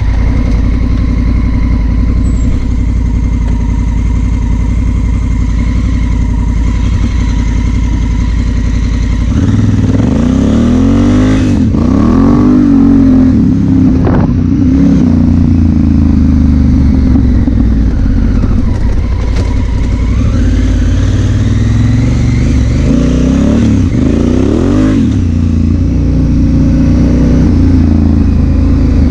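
Honda Africa Twin CRF1000L's parallel-twin engine running steadily at cruise, then from about a third of the way in revving up and down in rising and falling sweeps, with another run of rises and falls shortly before the end.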